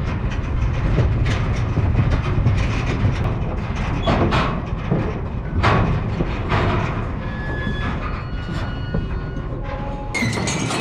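Loaded livestock trailer rattling and clanking over a steady low rumble, with irregular metal knocks and the loudest clanks about four and six seconds in.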